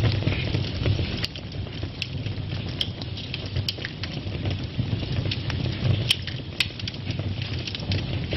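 Wood fire burning in a fireplace: a steady low rumble of flame with sharp crackles and pops about once a second.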